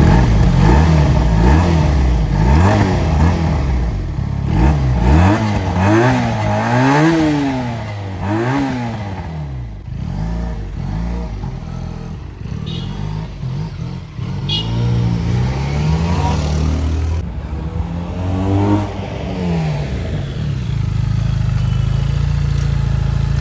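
Benelli 302S's 300 cc parallel-twin engine revving up and shifting through the gears as the motorcycle is ridden off, its pitch climbing and dropping several times, then running more steadily near the end.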